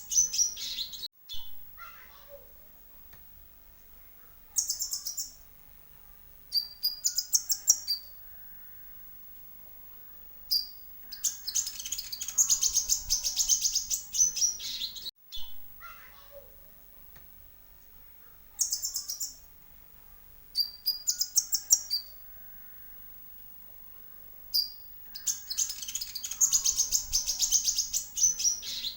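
Kolibri ninja (konin) sunbird singing: bursts of rapid, high-pitched twittering trills, each lasting one to three seconds, repeated after short pauses, with fainter lower sliding notes between them.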